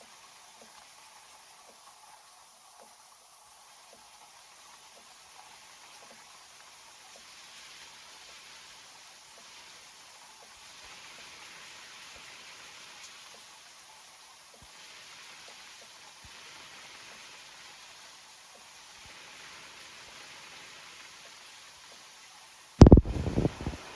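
Rain falling on banana leaves: a steady soft patter with scattered single drops striking. Near the end, a sudden loud thump with a few quick follow-up knocks.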